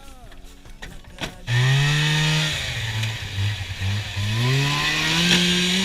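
Snowmobile engine revving: it comes in suddenly about one and a half seconds in, rises, drops back to a lower steady pitch, then revs up steadily again before cutting off abruptly.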